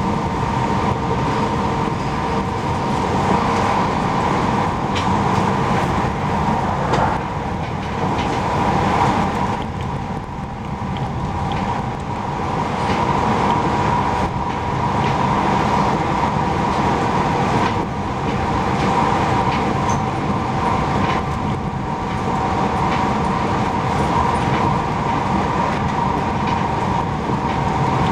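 Passenger train running along the line, heard from inside the carriage: a steady rumble and rushing noise with a constant hum, and a few faint clicks along the way.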